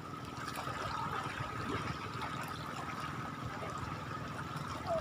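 Shallow water lapping and trickling at the shoreline, with a steady high-pitched hum running alongside.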